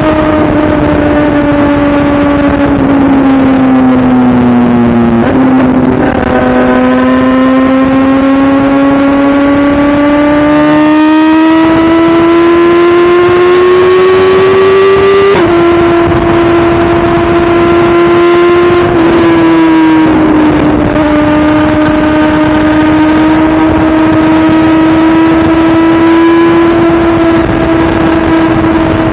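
2017 BMW S1000RR's inline-four engine running hard under way. The pitch sags for the first few seconds as the bike slows, then climbs steadily under acceleration. It steps at a gear change a little past halfway and then holds fairly steady.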